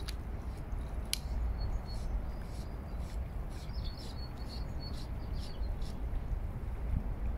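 Small birds chirping in short, high calls, most of them in the middle of the clip, over a steady low rumble. Two sharp clicks in the first second or so.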